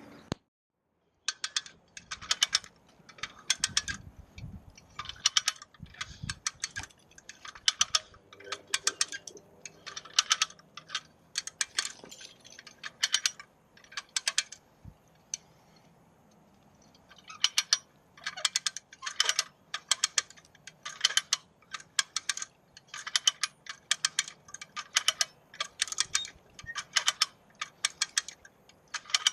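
Footsteps crunching through dry leaves and twigs at a walking pace, with a short pause midway.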